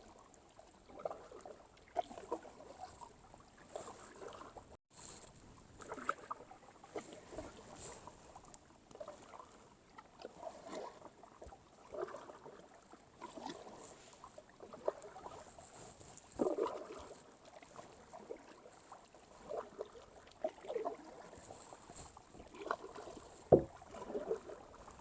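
Kayak paddle strokes dipping and splashing in calm water, a stroke about every second or so, with a sharper splash near the end.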